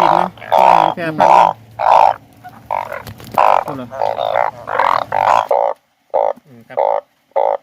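Banded bullfrogs calling in a breeding chorus after fresh rain: short, loud calls repeating about twice a second. A low background hum drops out about five and a half seconds in while the calls carry on.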